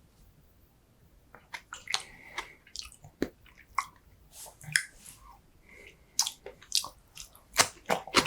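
Close-miked eating: chewing with wet mouth clicks and smacks. They start about a second and a half in after near quiet, then come thicker and louder near the end.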